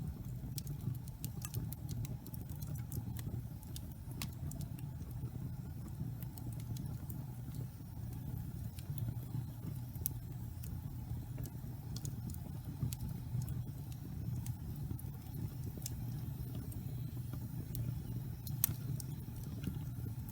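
Wood logs burning in a fireplace: a steady low rumble of the fire with irregular sharp crackles and pops, one louder pop near the end.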